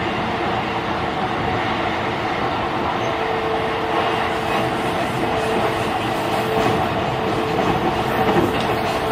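JR East E531 series electric commuter train running between stations, heard from inside the car: a steady rumble of wheels on rail with a faint steady hum.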